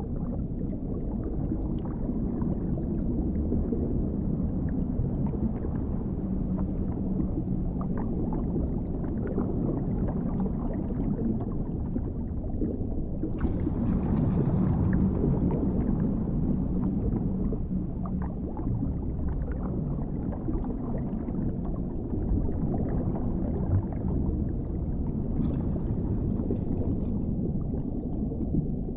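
Underwater ambience: a steady, deep, muffled rumble with gurgling water and scattered faint clicks. It swells brighter for a few seconds about halfway through.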